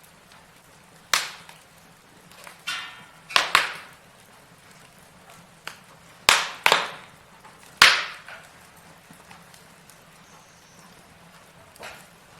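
Logs burning in a fireplace, crackling with irregular sharp pops. The loudest pops come in a cluster between about one and eight seconds in, with only a few fainter snaps after that.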